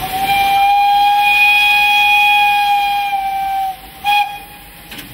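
Steam whistle of a Romanian-built narrow-gauge steam locomotive blowing one long, steady blast of about three and a half seconds, followed by a short toot.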